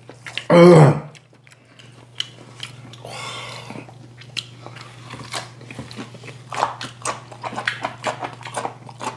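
Close-up chewing and biting of food, with scattered sharp clicks from chopsticks and dishes and one short voiced exclamation about half a second in, over a steady low hum.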